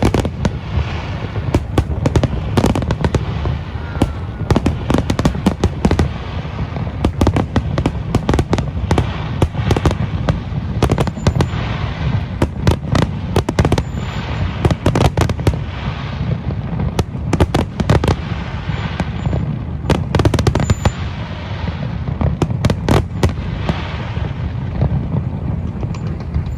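Fireworks display going off: many sharp bangs and crackles in quick succession over a continuous low rumble of booms.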